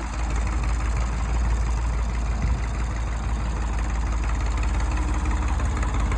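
Mid-1960s farm tractor engine running steadily, its sound sitting mostly low in pitch.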